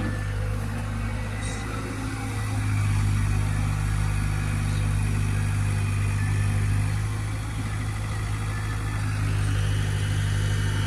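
Diesel engine running steadily with a deep, even drone, getting a little louder about three seconds in.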